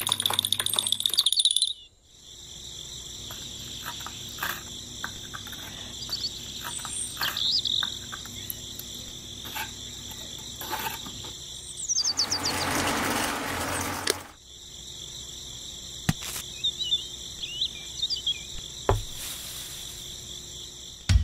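Crickets chirring steadily, louder in the first two seconds, with a few short bird chirps. About twelve seconds in, a scraping noise lasts about two seconds.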